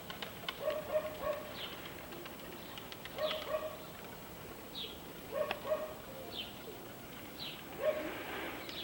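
Domestic fighting pigeons cooing in a few short bursts, with a small bird's short, high, falling chirps repeating every second or so and a few sharp clicks in between.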